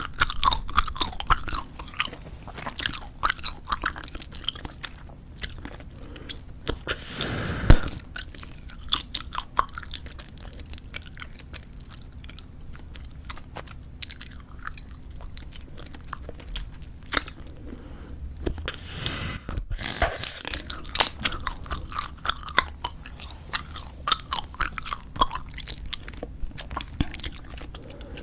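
Close-miked chewing of squeezable tube bubble gum: quick, wet clicks and snaps of gum worked in the mouth, with one louder, longer burst about seven and a half seconds in.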